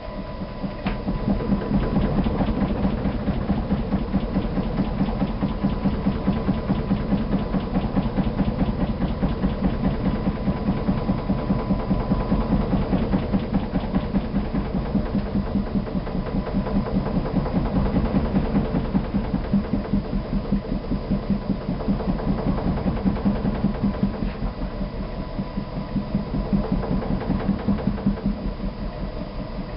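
Sharp ES-TX800 washing machine in its spin cycle, shaking violently and knocking in a fast, even rhythm. The owner suspects an initial defect.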